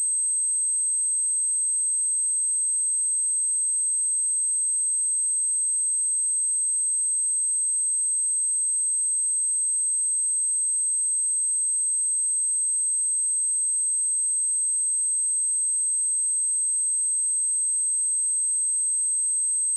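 A pure 8264 Hz sine-wave test tone, one steady high-pitched whistle held at constant level, of the kind played to test speakers or to shake water and dust out of a speaker.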